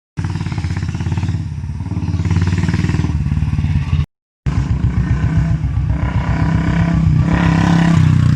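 Royal Enfield motorcycle running with an aftermarket free-flow silencer, a fast steady exhaust beat that swells louder a couple of times as the throttle is opened. The sound cuts out briefly at the start and again about four seconds in.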